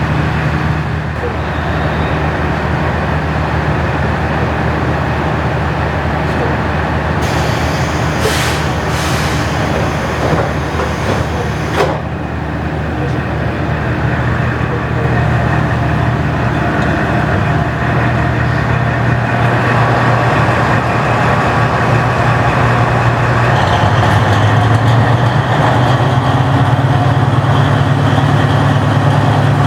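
A large diesel engine running, its pitch stepping upward through the second half as it is worked harder. A burst of air hissing with a few sharp clicks comes about a third of the way in.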